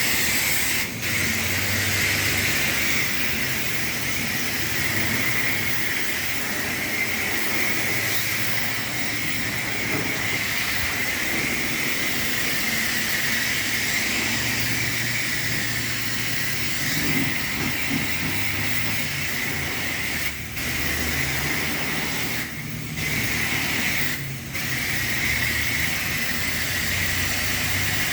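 Pressure washer wand spraying water in a steady hiss, cutting out briefly a few times.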